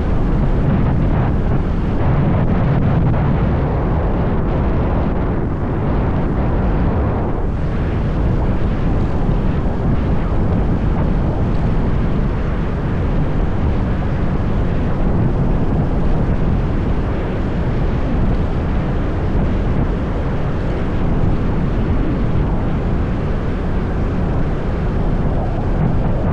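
Steady wind noise buffeting the microphone of a moving motorbike, with the bike's engine running underneath.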